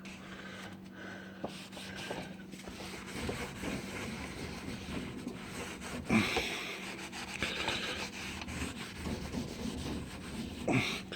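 Rag rubbing and wiping over the inside of a smoker door, scrubbing off carbon and grease loosened by a degreaser, in irregular strokes with a few harder ones about six, seven and a half and eleven seconds in.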